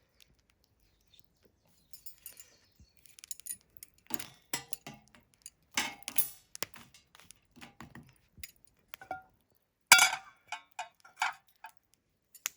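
Metal camp cookware and utensils clinking and knocking as they are handled, in scattered bursts; the loudest clink comes near the end and rings briefly.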